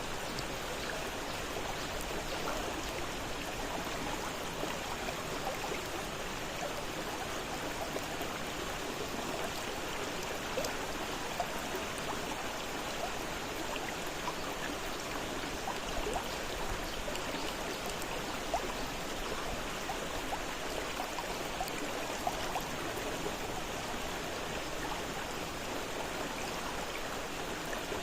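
A fast-flowing river rushing and splashing over its bed: a steady wash of water with small splashes scattered through it.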